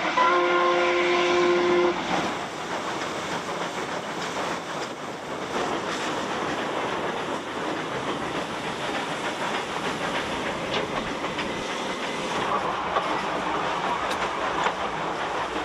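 A train's whistle sounds one long chord and cuts off about two seconds in. The train then keeps running along the track with a steady rumbling clatter.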